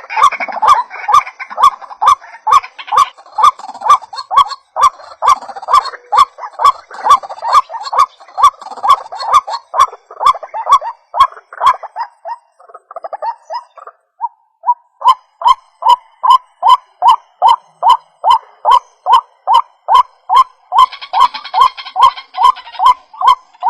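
White-breasted waterhen calling: a fast string of short, repeated notes, about two to three a second, that breaks off for about two seconds in the middle and then starts again.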